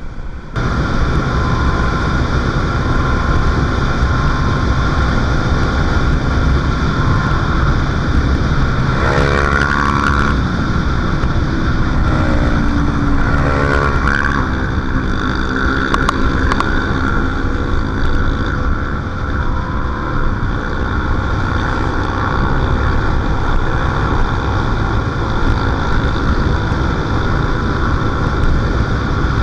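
Motorcycle engine running at speed, with wind rushing over the microphone. The engine pitch rises and falls briefly twice, about nine and thirteen seconds in.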